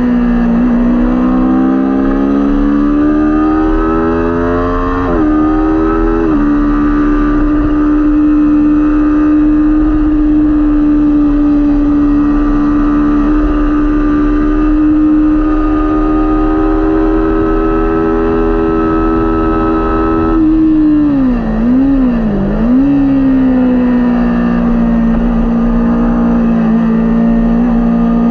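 Kawasaki Ninja 400 parallel-twin engine at race pace. Its pitch climbs under acceleration, breaks sharply for a gear change about five seconds in, then holds a long steady high note. Around 21 to 23 seconds it dips and rises a couple of times in quick downshifts before settling at a lower steady pitch.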